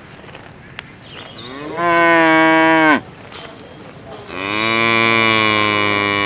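A cow mooing twice: two long moos, each sliding up in pitch at the start, holding steady, then dropping away. The second moo is longer and starts about a second after the first ends.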